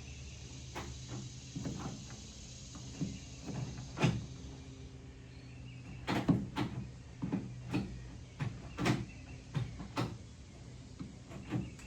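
Manual gear shifter being worked by hand through the gears on newly fitted shift cables: a series of irregular clunks and clicks over a steady low hum.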